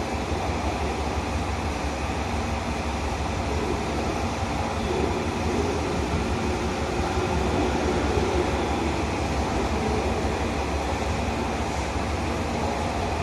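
KiHa 200-series diesel railcar engines running steadily at a low, even pitch.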